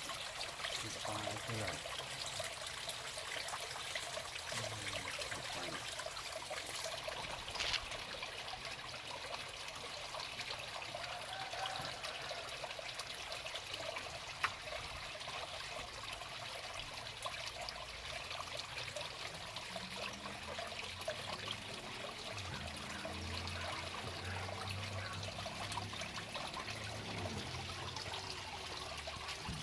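Water trickling steadily, like a small stream running over stones, with a couple of sharp clicks. A low hum joins in about two-thirds of the way through.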